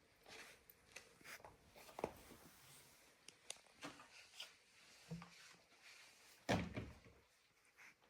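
Scattered light clicks and taps, with a heavier thump about two seconds in and a louder, deeper thump about six and a half seconds in.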